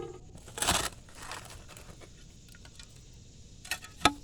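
Shovel digging into clay and rocky soil: a scrape of the blade just under a second in, softer scrapes after it, and a sharp knock near the end.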